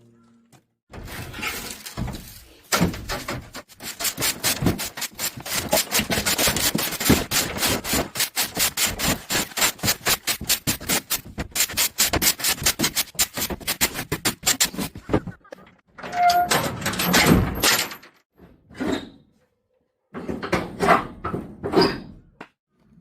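Firewood being handled: wood rubbing and rasping in a rapid run of strokes that lasts about twelve seconds, then shorter bursts near the end.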